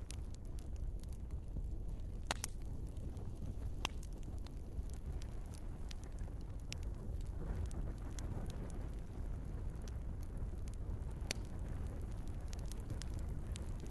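Wood fire burning in a fireplace: a steady low rush of flames with scattered sharp crackles and pops from the logs, a louder pop about two seconds in and another near eleven seconds.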